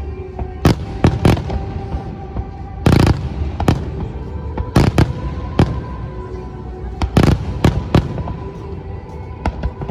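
Aerial fireworks bursting in a string of sharp, irregular bangs, about a dozen, the heaviest about three seconds in. Music plays underneath.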